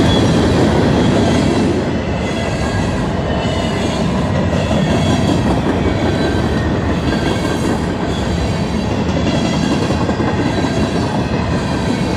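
Freight train of empty grain and coal cars rolling past: a steady, loud rumble of wheels on the rails, with faint thin wheel squeals coming and going.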